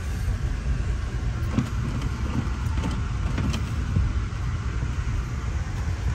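Steady low rumble of a moving passenger train heard from inside the coach, with a few faint clicks in the first half.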